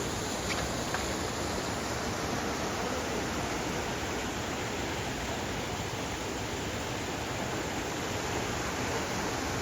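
A steady, even rushing noise with no clear pitch, holding level throughout.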